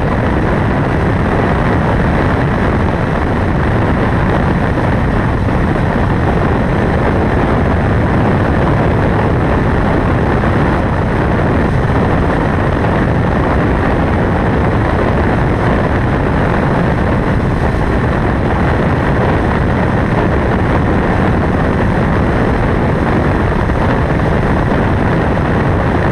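Motorcycle under way at a steady speed: engine noise blended with wind rushing over the microphone, an even, unbroken noise with no changes in pitch.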